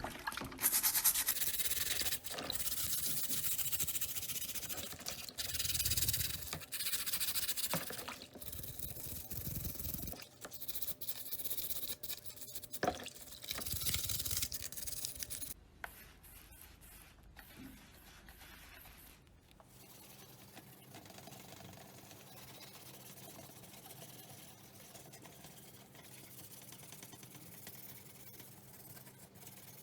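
Hand rubbing and scraping on a scale model part, in irregular strokes, for about the first half. It then drops to a faint steady hum.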